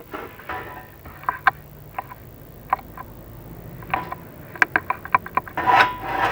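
Chimney inspection camera knocking and scraping against terracotta flue tiles as it is lowered down the flue: irregular sharp clicks and taps, with a longer scrape about six seconds in.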